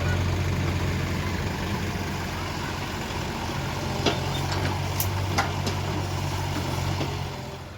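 Heavy diesel engine running steadily, with a few sharp knocks about four and five seconds in.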